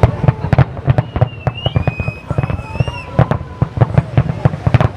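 New Year fireworks display: a rapid barrage of firework bangs, several a second, with thin whistling tones above them.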